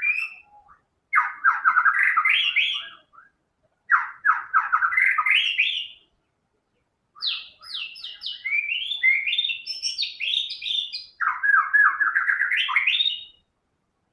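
White-rumped shama (murai batu) in full song, delivering bursts of rapid, repeated whistled notes in four phrases with short pauses between them. It falls silent shortly before the end.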